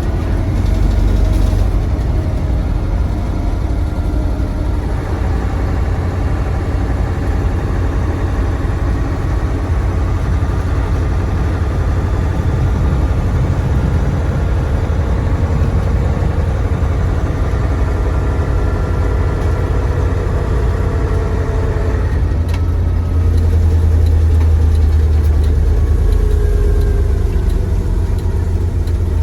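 Mercedes-Benz SK 1729 truck's OM 442 15-litre V8 diesel running on the move, its note slowly rising in pitch. About three-quarters of the way through it breaks with a short tick, and the engine comes back louder and lower.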